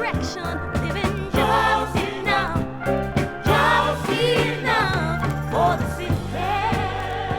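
Gospel choir and soul band music: a steady bass line and keyboard chords under wordless or unclear sung runs, with a held vocal note near the end.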